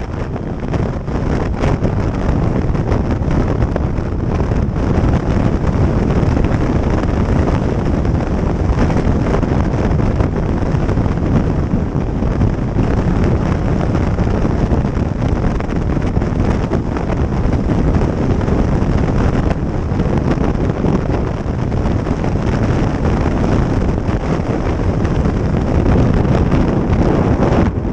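Steady wind noise on the microphone of a moving motorcycle, mixed with road and engine noise from the bike.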